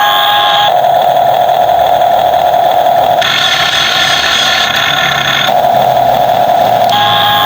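Steady electric whine of a radio-controlled excavator's motors. Its tone changes every one to three seconds, switching between a clear pitched whine and a rougher hum as different movements are worked.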